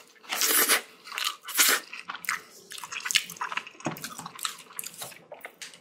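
Person chewing a mouthful of spicy bibimbap (rice mixed with seasoned vegetables) close to the microphone, the mouth sounds coming in quick, irregular bursts.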